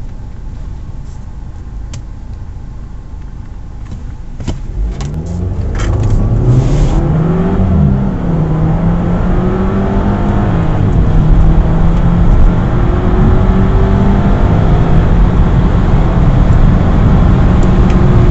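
Turbocharged four-cylinder car engine heard from inside the cabin: idling at first, then about five seconds in it goes to full-throttle acceleration from standstill, the revs climbing and dropping back at each gear change.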